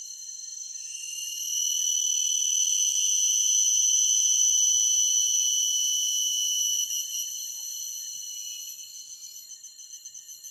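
Forest insects buzzing in a steady high-pitched chorus that swells loud about a second and a half in, holds, then fades after about seven seconds into a pulsing trill.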